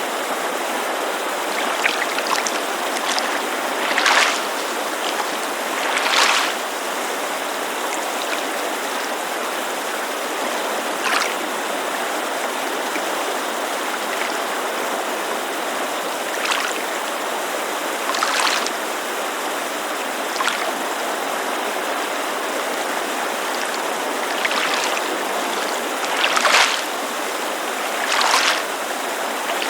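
Steady rushing of a mountain creek, with small waves lapping against a lakeshore in brief splashes every two to five seconds.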